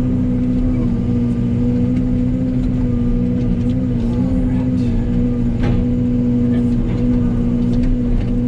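Heavy diesel engine running at a steady speed, with a few light knocks and clanks.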